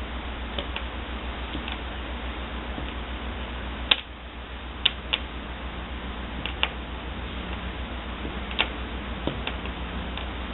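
Irregular light clicks and taps of a window blind's pull cord knocking about as a cat's tail swats at it; the sharpest click comes about four seconds in. A steady low hum runs underneath.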